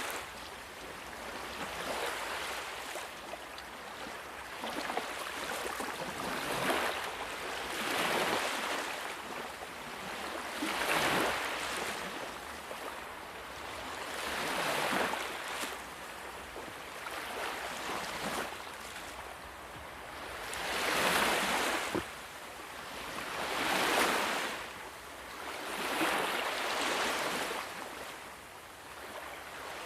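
Ocean waves breaking, the surf swelling and washing back in repeated surges every two to four seconds, stronger in the second half.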